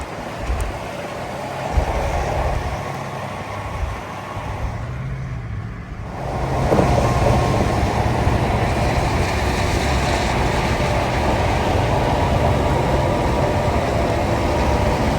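Road vehicle noise: engines running with tyre and road noise. It dips briefly about five seconds in, then grows louder and fuller about a second later and stays that way.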